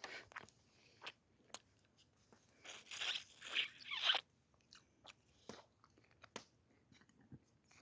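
Someone biting and chewing crunchy food close to the microphone, with scattered small clicks and a louder run of crunching about three to four seconds in.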